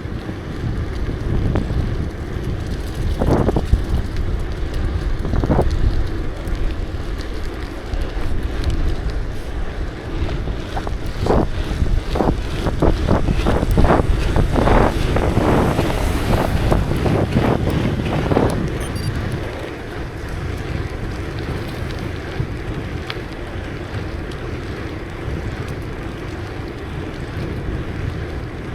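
Wind buffeting the microphone during a bicycle ride, a steady low rumble. A run of short knocks and rattles comes in the middle.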